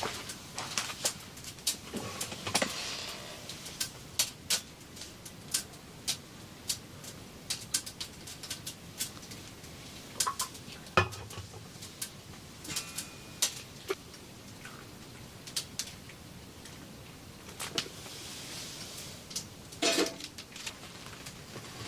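Irregular light clicks and knocks, like objects being handled, with a louder clatter near the end.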